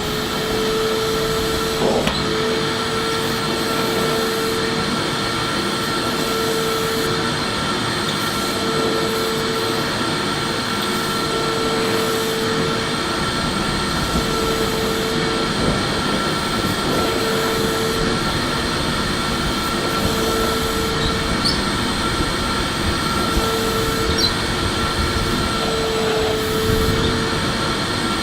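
Electric vacuum cleaner motor running steadily with an even whooshing hiss and a high whine, plus a lower hum that drops in and out every second or two.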